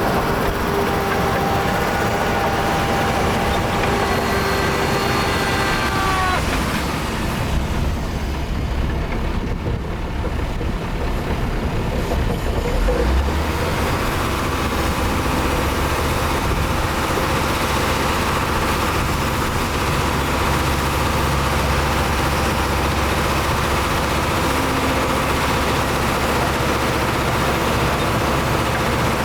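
Heavy diesel earthmoving machinery running steadily with a deep engine rumble. For the first six seconds or so, several high steady whining tones sound over it and then stop. The low rumble swells from about 8 to 13 seconds in, as under load.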